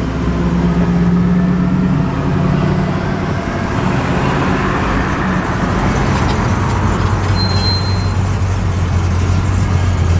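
A Chevrolet Camaro's engine running as it drives out, with other cars' engines behind it. About halfway through, a lower, steady engine note from the next car takes over.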